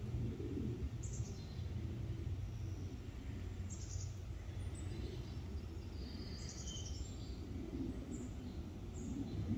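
Backyard ambience: a steady low rumble with several short, high bird chirps scattered through it.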